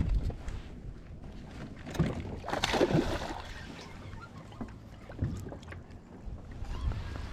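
Wind gusting over the microphone with choppy water lapping at a small plastic boat's hull, with a few light knocks and a louder rushing swell about two to three seconds in.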